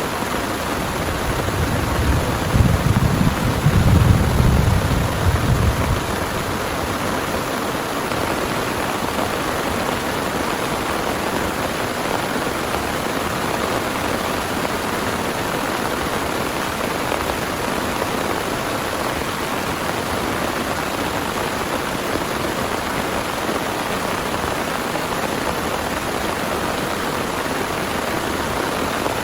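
Heavy rain falling steadily. A low rumble of thunder builds about two seconds in and dies away by about six seconds.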